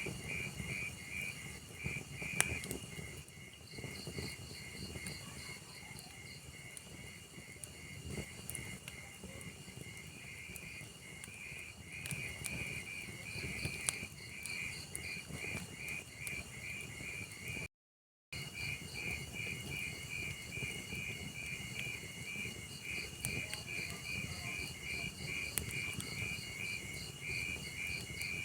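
Crickets chirping in an even pulse, about three chirps a second, over the low crackle of a burning log fire with occasional sharp pops. The sound cuts out completely for about half a second about two-thirds of the way through.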